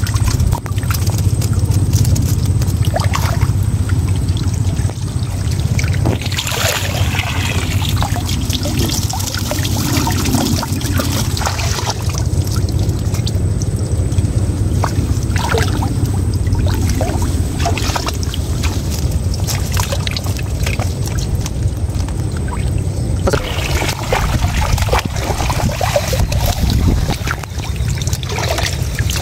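Water pouring and trickling with scattered small splashes and knocks, over a steady low rumble.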